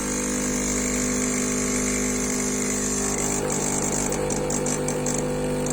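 Klarstein Espressionata Gusto espresso machine's pump running with a steady hum, pushing hot water through the group head with no coffee loaded, as a cleaning run. A quick run of faint high ticks comes about four seconds in.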